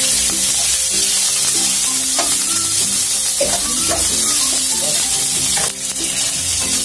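Cauliflower florets sizzling in hot mustard oil in a metal kadhai, stirred with a spatula, with a few scrapes of the spatula against the pan.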